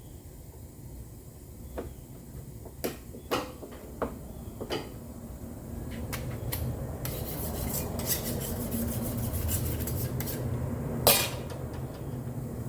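Hand tools clinking against metal body parts a few times. From about six seconds in comes a steady rasping, rubbing noise, like sanding or scraping on a panel, with one loud metallic clank near the end.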